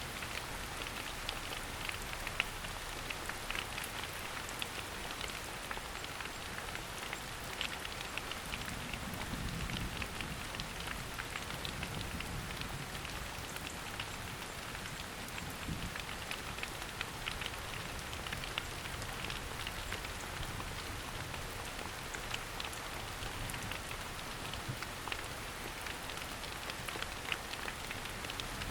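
Steady rain falling in a forest, with many individual drops ticking close by over an even hiss.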